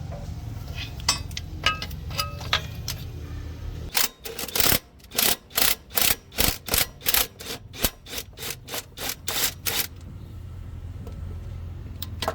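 A low steady rumble, then about a dozen sharp hammer blows, roughly two a second, that grow weaker toward the end, before the rumble returns.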